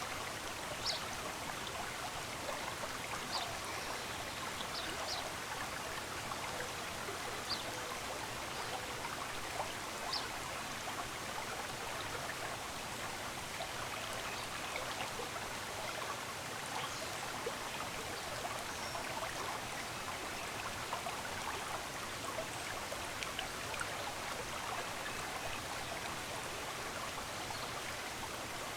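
Running water of a stream, a steady rushing splash, with a few brief high ticks in the first third.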